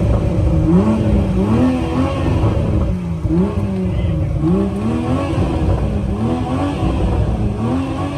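Car engine being revved repeatedly in short blips, roughly once a second, its pitch rising and falling with each blip.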